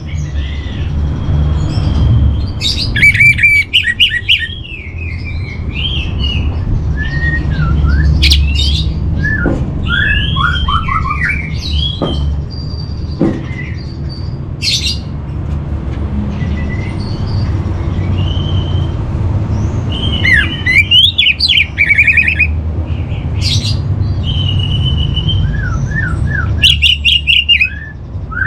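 Orange-headed thrush singing: a varied song of short whistled phrases and quick runs of falling notes, with brief gaps between phrases, over a steady low hum.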